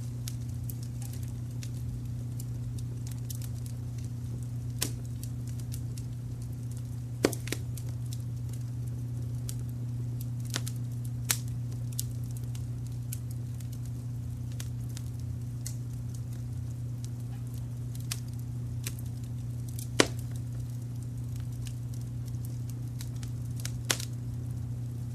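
Wood fire crackling, with scattered sharp pops, the loudest about seven seconds in and again about twenty seconds in. Underneath runs a steady, smooth brown noise layer.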